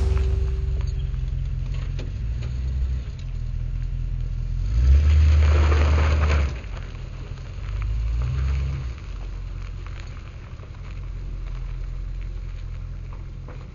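1978 Chevy 3/4-ton pickup's 350 V8 running. It revs up hard about five seconds in for a second and a half, revs again briefly about eight seconds in, then eases off.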